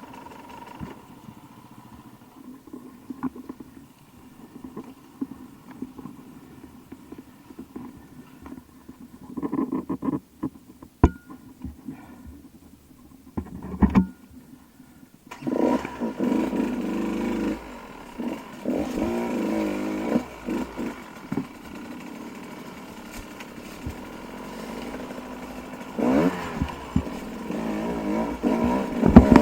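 Dirt bike engine running low at first, with a few sharp knocks and clicks a little before halfway. Then an engine comes in suddenly and loudly and revs up and down, loudest near the end.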